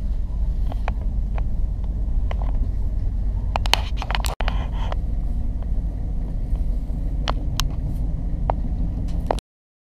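Passenger train running, heard from inside the carriage: a steady low rumble with occasional sharp clicks, cut off suddenly near the end.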